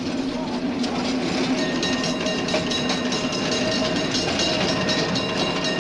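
Sound effect of a streetcar running on its rails: a steady rumbling hum with regular clicking of the wheels, growing louder over the first second.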